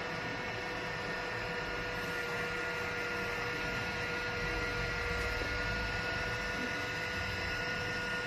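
A steady hum with a few constant tones over a low background noise, unchanging throughout.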